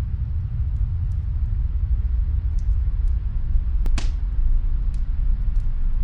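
Steady low rumble of snowstorm wind with faint, scattered fireplace crackles from another room, and one louder pop from the fire about four seconds in.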